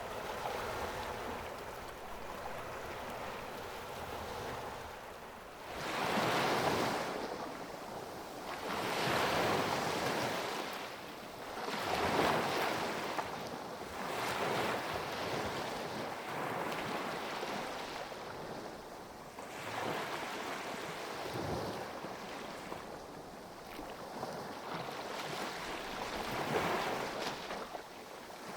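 Sea waves breaking and washing in, swelling and fading every few seconds, with strong wind buffeting the microphone.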